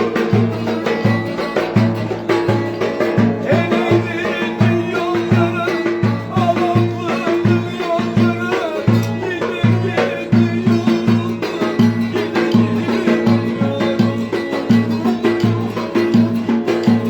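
Turkish folk dance tune (oyun havası) played on instruments, with a steady, driving drum beat under a wavering melody.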